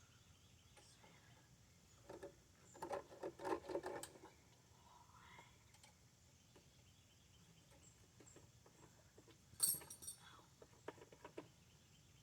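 Small metal parts or hand tools clinking and rattling as they are handled: a quick run of rattles about two seconds in, then a single sharp metallic clink shortly before the end, followed by a few light ticks.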